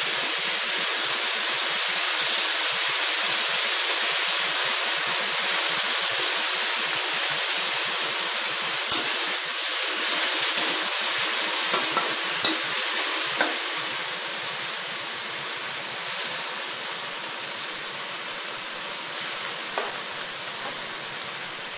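Snow peas and shiitake mushrooms sizzling in a hot wok just after the mushroom soaking water has gone in, a steady hiss of steam that slowly fades over the second half. Now and then the metal spatula clinks against the wok as the vegetables are stirred.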